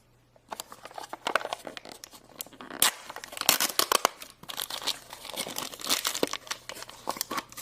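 Packaging of a Num Noms surprise cup being torn open and crinkled by hand: a rapid, irregular run of crackles and rips starting about half a second in.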